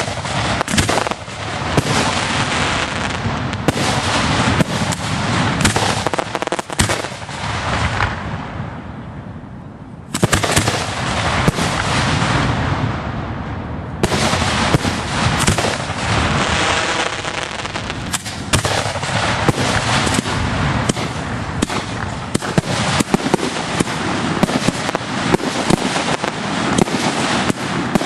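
Consumer firework cakes firing from close by at ground level: a dense, continuous barrage of rapid shots and crackling. It eases off about eight seconds in, then starts again loudly and suddenly about two seconds later.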